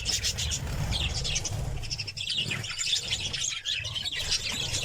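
Lovebirds chirping in a rapid, high chatter.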